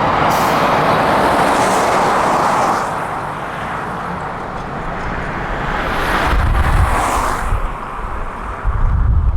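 Heavy construction machinery (excavators and a dump truck) working: a loud, noisy engine wash that drops off about three seconds in, then deep rumbling with high hissing and scraping about six to seven seconds in and again near the end.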